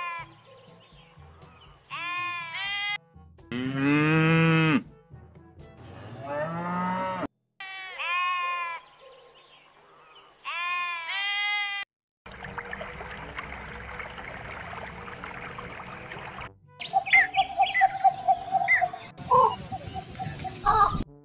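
Domestic sheep bleating: about six separate wavering bleats in the first twelve seconds, the loudest and deepest about four seconds in. After that comes a steady rough din, and then short chirping calls near the end.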